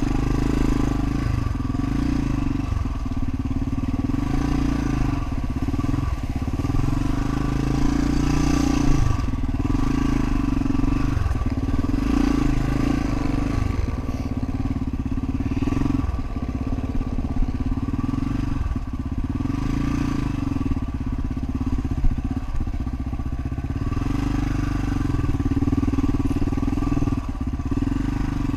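Honda XR500's single-cylinder four-stroke engine running while the bike is ridden, its speed rising and falling repeatedly as the throttle opens and closes, with a few sharp knocks.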